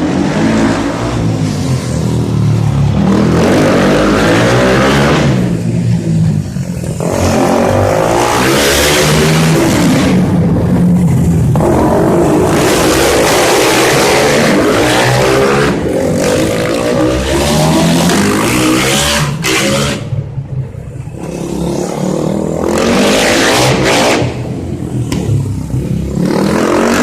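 250 cc motorcycle engines revving hard and loud, the pitch rising and falling as the bikes accelerate and shift, with several brief dips as riders pass and back off.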